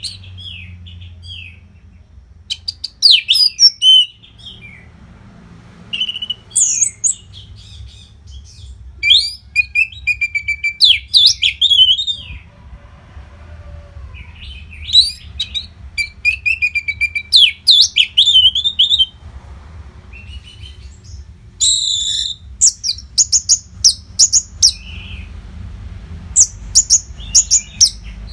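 Orange-headed thrush singing: loud phrases of rapid, varied high whistles and trills, each lasting one to three seconds with short pauses between, over a faint low hum.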